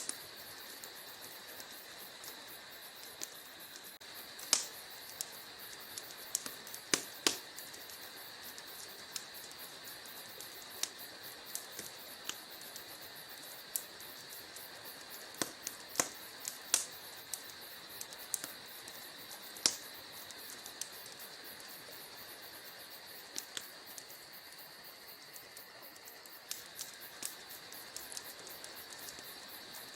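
Wood fire crackling in a fireplace: a steady soft hiss with irregular sharp pops and snaps, several louder pops scattered through.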